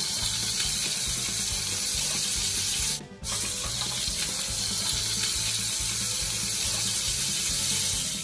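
Oil sizzling steadily as minced-beef kebab patties shallow-fry in a pan, broken by a sudden short gap about three seconds in. A low music beat runs underneath.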